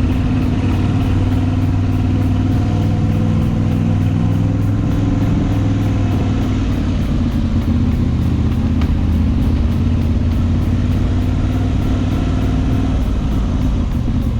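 Moto Guzzi V85TT's air-cooled transverse V-twin engine running steadily while riding, its pitch shifting slightly about five seconds in.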